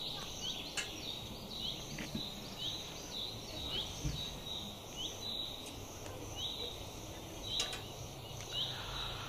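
A bird repeating a short high chirp about once a second over a steady outdoor background hiss, with a few faint sharp clicks.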